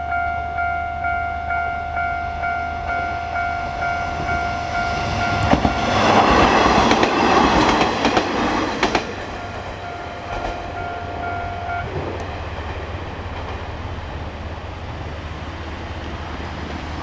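Level crossing warning bell ringing in a steady repeating pattern, about two strokes a second, as a two-car Kanto Railway KiHa 5000 diesel railcar runs over the crossing, loudest from about six to nine seconds in, with its wheels clacking over the rail joints. The bell stops about twelve seconds in, leaving the railcar's steady running noise.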